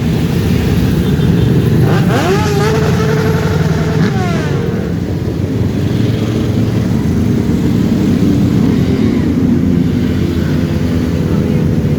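Many motorcycle engines running together in a slow procession. One revs up about two seconds in, and another passes with a falling pitch a couple of seconds later.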